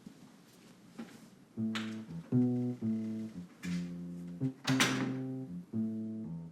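Guitar music strumming a series of chords, starting about one and a half seconds in after a quiet start.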